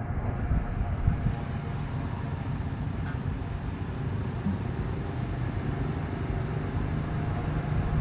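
A steady low mechanical rumble, like a running motor, with a few faint ticks.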